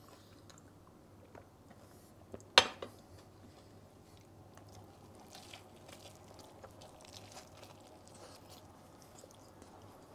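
Faint chewing of a mouthful of döner sandwich, with a drinking glass set down with one sharp clink about two and a half seconds in.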